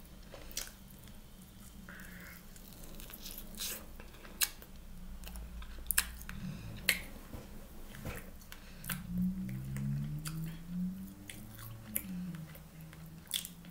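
A person chewing a barbecue chicken wing with her mouth open, with wet smacking clicks of lips and tongue scattered throughout. A low hummed 'mm' of the voice comes a little past halfway.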